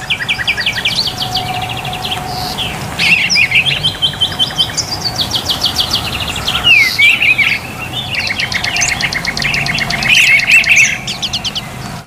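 Songbirds chirping and trilling: fast runs of short repeated notes and gliding whistles that overlap one another, over a faint steady hiss.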